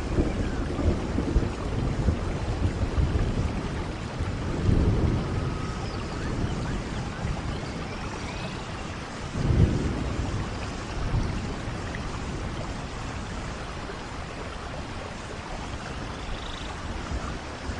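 Steady rain falling, with low rolls of thunder about five seconds in and again near ten seconds.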